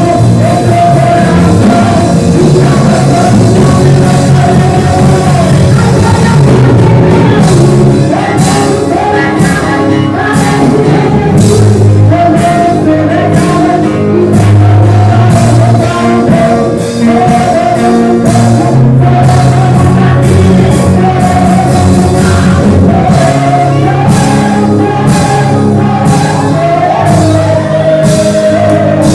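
Live worship band playing loudly, with a sung or sustained melody over bass and a steady drum beat.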